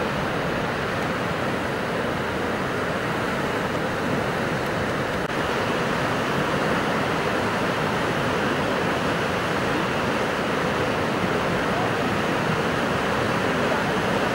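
Steady rushing of the Indus River's whitewater rapids, an even, unbroken roar of fast-moving water.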